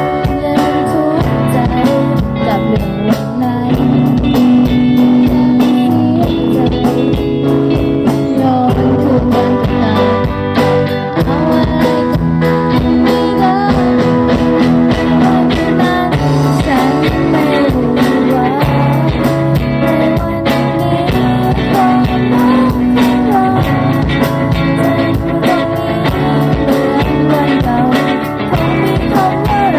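A band playing a blues-tinged rock song, electric guitar to the fore over bass and drums.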